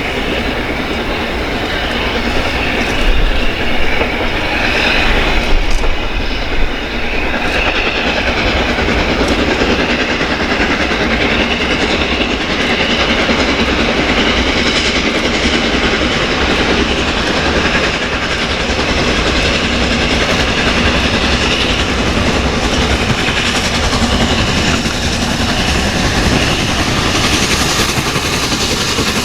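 Train running past on the line, its wheels clicking over the rail joints, loudest in the first seven seconds or so.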